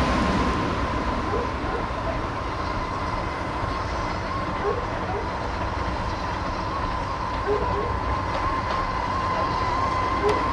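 Steam-hauled passenger train running along the track: a steady rumble with a few faint clicks, and a thin steady high tone that holds throughout.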